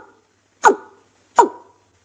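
Watercock calling: two short, sharp notes about three-quarters of a second apart, each dropping quickly in pitch.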